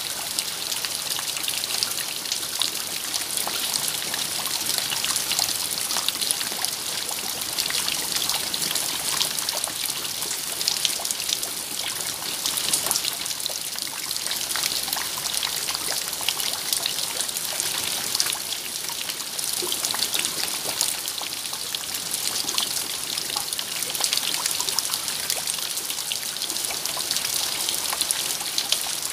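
Steady rain falling, heard as an even hiss with many small, close drop hits scattered through it.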